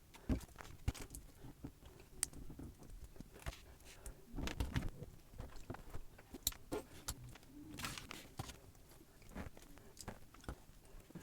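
Small plastic building bricks clicking and rattling as they are handled and pressed together: scattered sharp clicks, with a busier clatter about four and a half seconds in.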